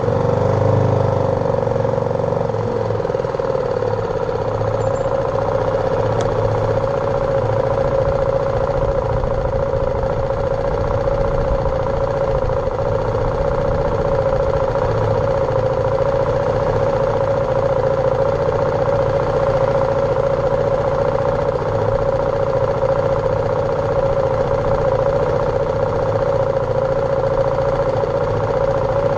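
BMW G310R's single-cylinder engine running at a steady pitch under a constant low rumble, the note wavering briefly about a second in.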